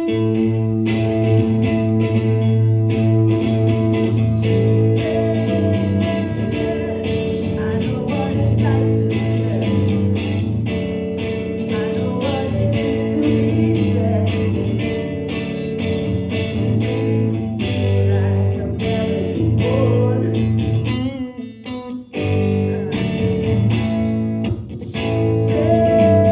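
A rock band plays a guitar-led instrumental passage with electric guitar and bass. The music drops out for a moment a little before the end, then comes back in.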